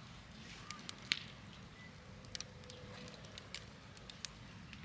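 Wood campfire crackling faintly, with scattered sharp pops; the loudest comes about a second in.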